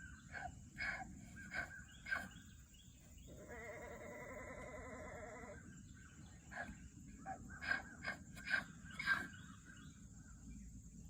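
A farm animal bleating: one long wavering bleat of about two seconds in the middle, between two runs of short, sharp calls.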